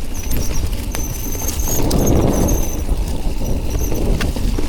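Mountain bike disc brakes squealing on and off in a high pitch as they drag on a wet, slow descent, over the rattle of the bike and tyres on the rough trail and a low wind rumble.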